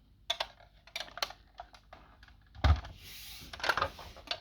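Light clicks and taps of diecast model vans being handled, with a louder knock about two and a half seconds in, followed by a brief rustle.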